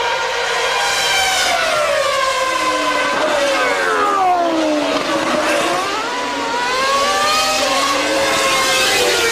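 Formula One car engines running at high revs, several notes overlapping; the pitch slides down to a low point a little past the middle, then climbs again.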